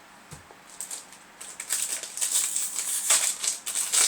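Foil wrapper of a Yu-Gi-Oh! booster pack crinkling as it is torn open and handled: a fast, irregular crackle that starts about a second and a half in and grows louder.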